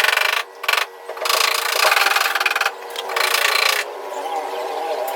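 Rasping, rubbing strokes on a surface in four bursts, the longest about a second and a half, over a steady background hum.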